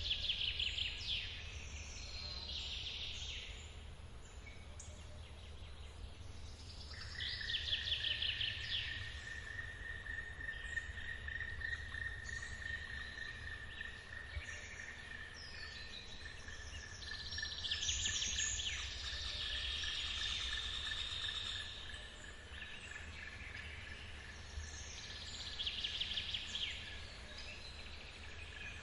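Forest birds singing over the low, steady rumble of a waterfall, with a short trilled phrase repeated about every eight seconds. About seven seconds in a steady high-pitched tone begins and holds throughout.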